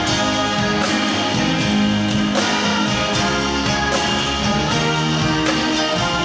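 Live band playing an instrumental passage, guitar over a steady drum beat.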